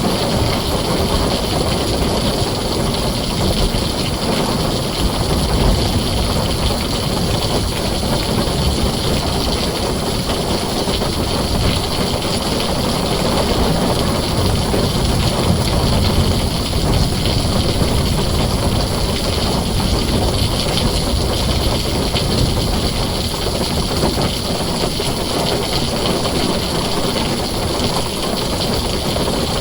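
Heavy rain falling steadily on a tin roof, with a deep rumble underneath.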